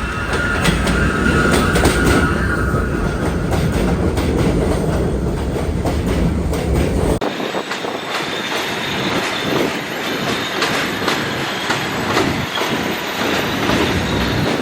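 New York City subway train running along an elevated line, wheels clacking over the rail joints, with a high, steady squeal in the first few seconds. About seven seconds in the sound changes abruptly: the deep rumble drops away, leaving a thinner rattle with clicks.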